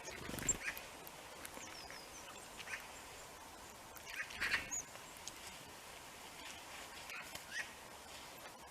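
Small birds calling with short, high notes, broken twice by a louder, harsh rasping call about half a second long, once at the start and once about four and a half seconds in.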